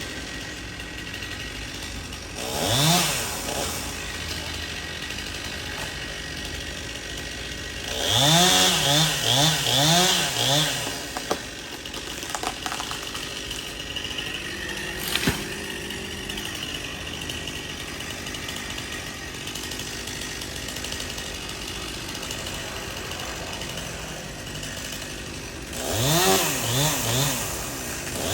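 Stihl two-stroke chainsaw idling and being revved in short throttle blips: one rev about three seconds in, a run of four quick revs around eight to eleven seconds, and two more near the end. A single sharp knock comes about halfway through.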